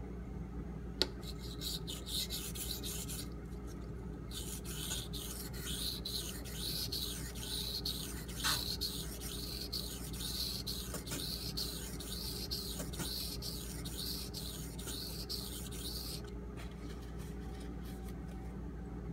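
Steel knife blade stroked back and forth on a Shapton Pro 1000-grit whetstone: a rhythmic rasping scrape at about two strokes a second, pausing briefly a few seconds in and stopping near the end, as the edge is worked up to a burr. A single sharp click comes about a second in.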